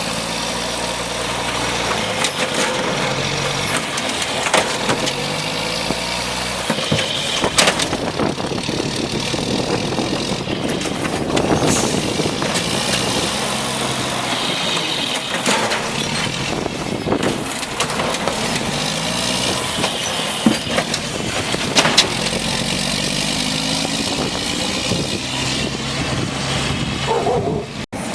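Automated side-load garbage truck at work: its diesel engine revs up and down again and again as the hydraulics run, with occasional sharp knocks and clangs.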